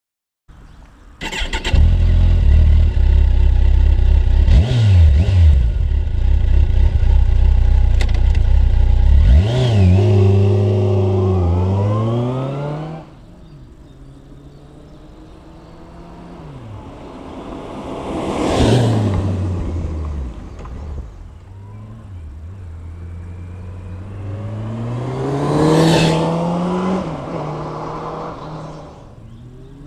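Kawasaki GTR 1400 (1400GTR) motorcycle's inline-four engine through its stock exhaust. It starts up about a second and a half in and runs steadily and loudly. Then it is revved up and down three times, the last two rises slower, with the overall level dropping about halfway through.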